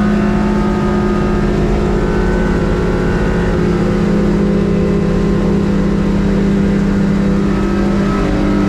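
Mercury 115 hp outboard running at a steady high speed while the boat planes, a constant engine note with no change in pitch.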